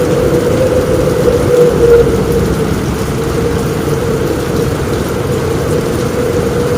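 Steady heavy rain drumming on a roof, with a low rumble of thunder that swells briefly about two seconds in.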